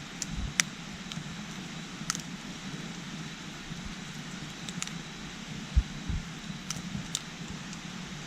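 Steady rush of a small stream with a few sharp crackles and pops from a campfire of scrap wood, plus a couple of low thumps, the loudest about six seconds in.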